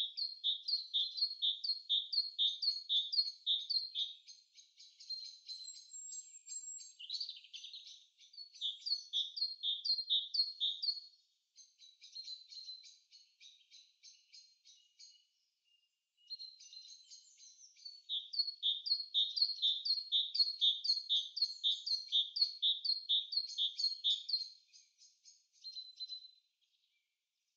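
A songbird singing long runs of quick, high, repeated chirps, about two or three a second, with short breaks between runs.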